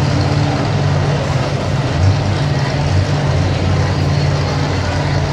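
Light pro stock pulling tractor's engine running at a steady speed at the sled, without the rising pitch of a pull.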